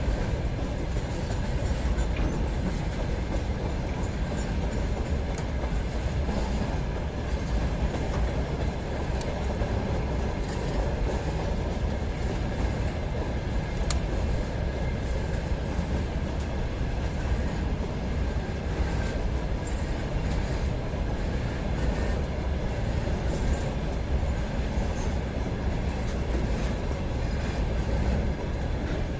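Freight train rolling along the tracks: a steady low rumble of wagons on the rails, with a few faint clicks.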